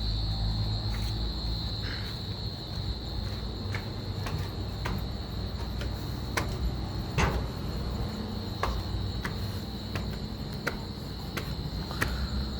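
Crickets chirring in one steady, high-pitched trill, with light ticks and taps every half second to a second and a low rumble underneath.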